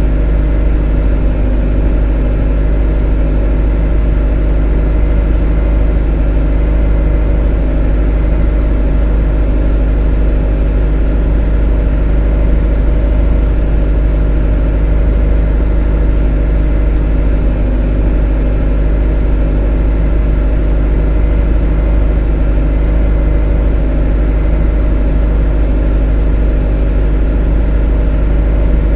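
A motor running steadily: a loud, unchanging low hum with several steady tones layered in it.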